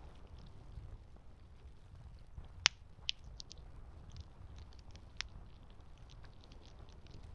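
Campfire crackling: a low steady rumble of burning wood with scattered small pops, and three louder snaps, the loudest about two and a half seconds in.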